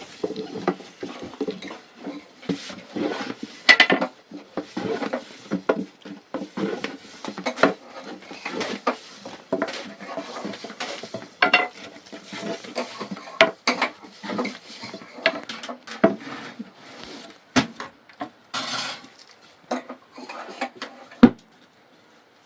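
Pots, dishes and utensils being handled, with a steady run of irregular clatters, knocks and clinks, some ringing briefly.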